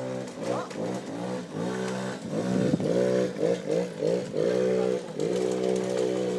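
Suzuki LT50 quad bike's small 49cc two-stroke single-cylinder engine running, its pitch rising and falling as the throttle is worked, with several quick revs in the middle.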